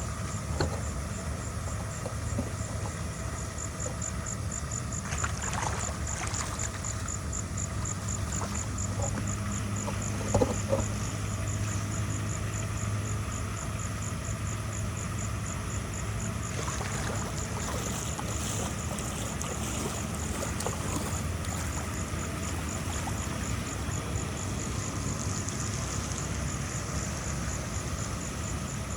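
A machine engine running steadily with a low drone, with a few knocks about ten seconds in.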